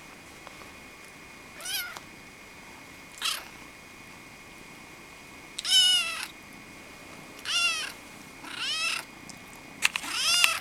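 Kittens meowing: about six separate high-pitched meows one to two seconds apart, the loudest about halfway through and near the end.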